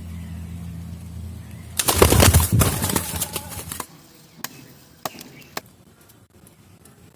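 A bird's wings flapping in a loud flurry of about two seconds, followed by three sharp clicks. A low steady hum runs underneath for the first couple of seconds.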